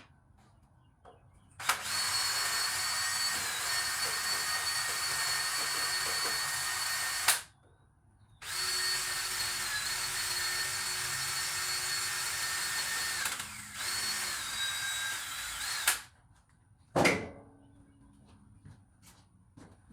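Power drill running in two long steady bursts of about six and eight seconds with a short pause between, its whine dipping slightly a few times, while clearing out a bolt hole in an International DT466 diesel block that turns out to hold only dirt. A brief sharp sound with a falling pitch follows about a second after the drill stops.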